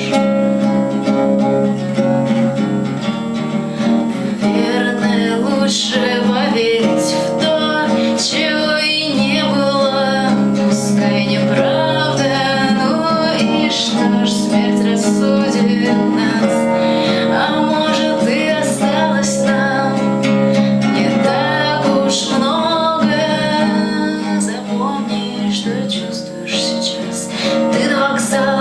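Acoustic guitar strummed and picked, playing a song live.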